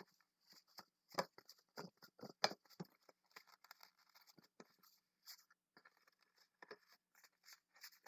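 Latex 260 twisting balloon being handled and twisted, giving a string of short, irregular squeaks and rubbing taps, busiest in the first few seconds.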